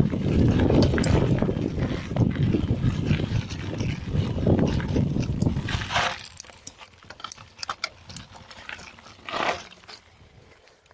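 Mountain bike rattling and jolting over a rough dirt trail, with rumble on the action camera's microphone. About six seconds in it goes much quieter, leaving scattered clicks and a short hiss near the end.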